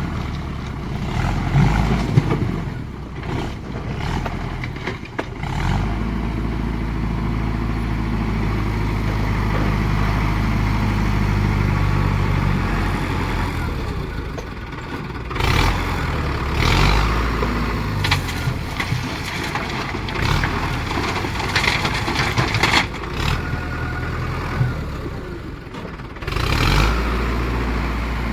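Heavy diesel engines running, with the engine speed held steady for several seconds in the middle, then rising and falling, and with louder surges of working noise later on.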